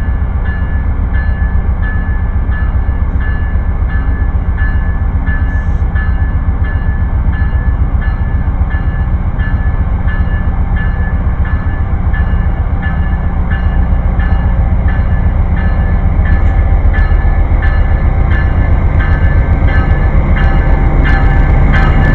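A train passing close by on the rails: a loud, steady rumble with a regular clicking about twice a second, growing louder near the end.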